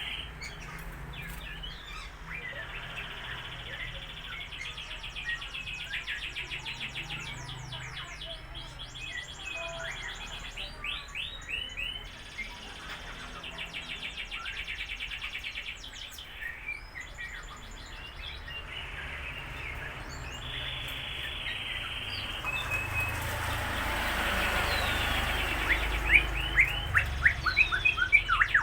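Lovebirds chattering in rapid strings of high, ticking chirps, repeated over and over. Over the last few seconds a rushing noise builds up and the chirps grow louder.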